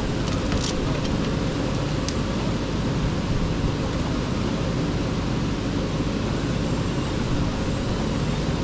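Wood-Mizer LT35 band sawmill running steadily as it saws a hemlock log lengthwise to flatten its first side, with two faint ticks early on.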